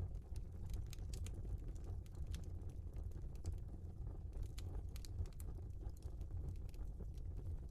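Wood fire burning in a fireplace: irregular crackles and small pops over a low steady rumble of flames.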